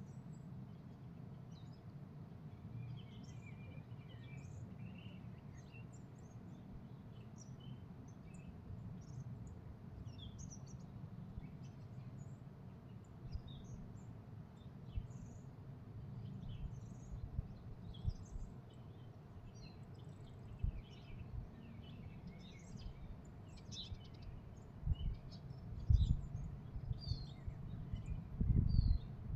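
Small birds chirping and calling in many short, scattered notes over a steady low rumble. A few loud low thumps come near the end.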